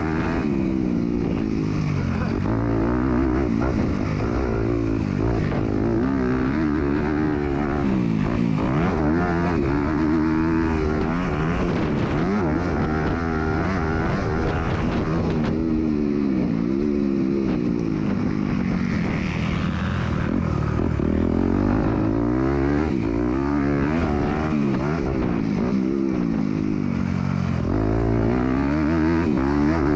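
MX2 motocross bike engine revving hard and backing off over and over, pitch sweeping up and down every second or two as the rider accelerates, shifts and brakes around the track.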